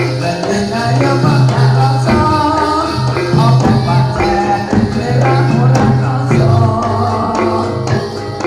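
Live jathilan dance accompaniment music: a melodic ensemble over held bass notes, with jingling percussion strikes and a singing voice.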